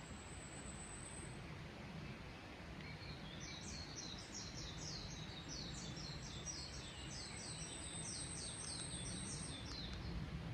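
Wild songbird singing a fast run of short, high notes, about four a second, from about three seconds in until near the end. A thin, very high steady tone is held near the start and again through the second half, over a steady low background hiss.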